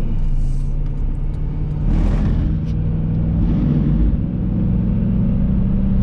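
Truck engine running while driving, a steady low drone whose pitch steps up slightly about three and a half seconds in, with a brief surge of rumbling road noise about two seconds in.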